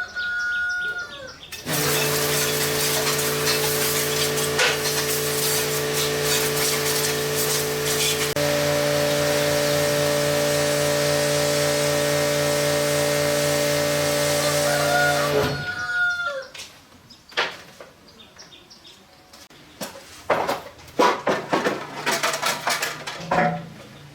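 A motor-driven machine runs steadily for about fourteen seconds, with a hum and hiss and one tone stepping higher about halfway through, then cuts off. Scattered light clicks and knocks follow.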